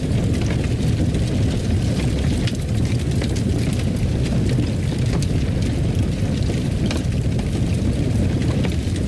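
Fireplace fire burning: a steady low roar of flames with frequent small crackles and pops.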